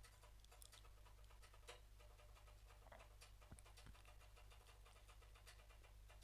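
Near silence: a low steady hum with a few faint, irregularly spaced clicks, as of a computer mouse during on-screen editing.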